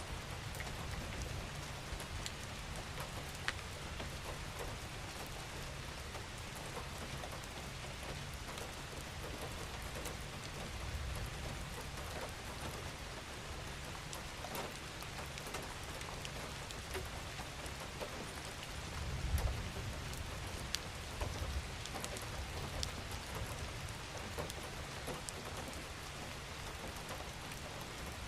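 Steady rain falling, with scattered individual drops ticking out of the wash, and a brief low rumble about two-thirds of the way through.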